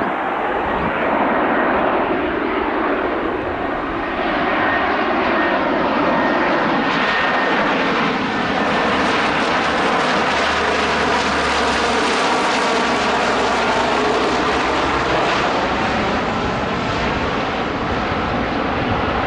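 Lockheed C-130H Hercules landing, its four Allison T56 turboprop engines making a loud, continuous drone whose tones shift slowly in pitch.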